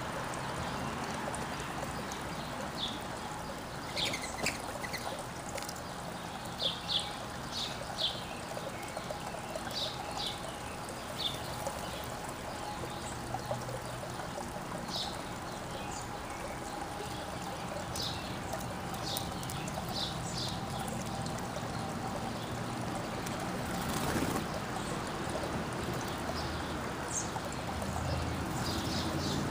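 Small backyard birds chirping, with short high calls scattered irregularly, some in quick runs of two or three, over a steady rushing background noise.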